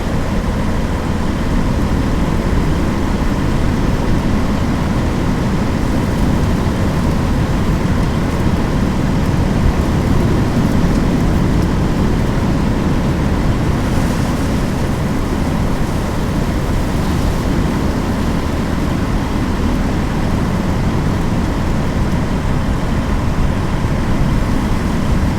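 Steady road and engine noise of a car on the move, heard from inside the cabin.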